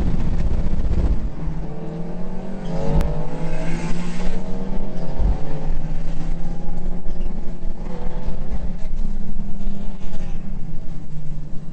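Mitsubishi Lancer Evolution VII's turbocharged four-cylinder engine heard from inside the cabin under hard acceleration. The pitch climbs and drops back several times as it revs up through the gears.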